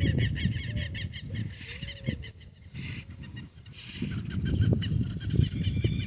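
Birds chirping in quick, repeated high notes, over low sloshing and splashing of shallow water as a fish is let go by hand.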